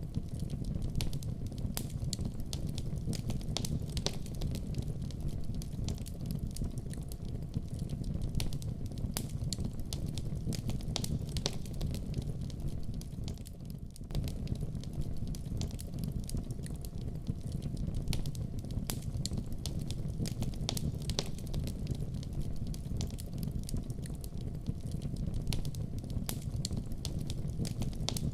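A fireplace fire crackling, with frequent sharp pops and snaps over the steady low rumble of the flames. It eases briefly about halfway through.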